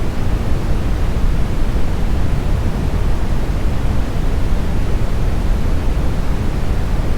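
Steady synthetic brown noise, smoothed: an even, unbroken rush with most of its energy deep in the bass.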